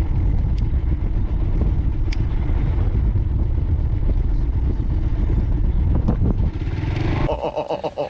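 Motorcycle being ridden: a steady low rumble of engine and wind noise that drops away about seven seconds in, followed by a short wavering call near the end.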